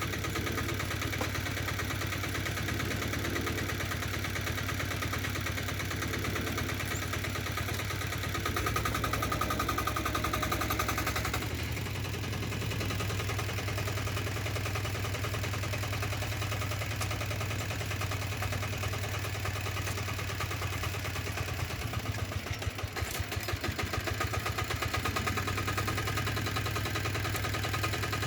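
Diesel walk-behind tractor engine running steadily with a fast chug. About nine seconds in it gets louder, with a whine, for about three seconds, then settles; around twenty-two seconds in it runs unevenly for a moment.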